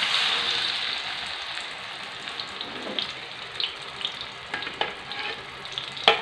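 Wet, water-blended spice paste hitting hot oil in a wok, sizzling hard at first and slowly settling. A few light clicks come from a metal spoon scraping the last paste out of the glass blender jar.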